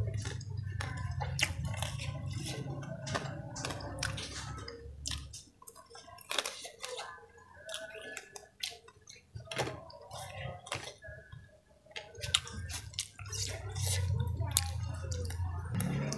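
Close-up chewing of crunchy fried vegetable fritters (bakwan): irregular wet mouth clicks, smacks and crunches, with a low steady hum underneath for the first few seconds and again near the end.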